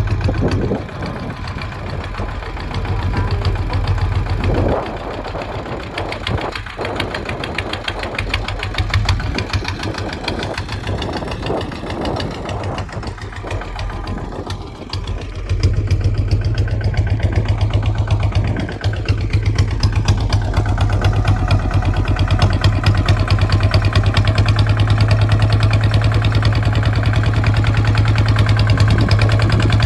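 Kubota ZT 155's single-cylinder diesel engine running with a steady low hum, uneven at first, then louder and steady from about halfway through as it picks up speed.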